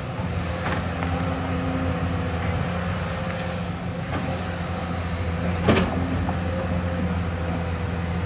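Hyundai hydraulic excavator's diesel engine running steadily, with a few sharp knocks, the loudest about six seconds in.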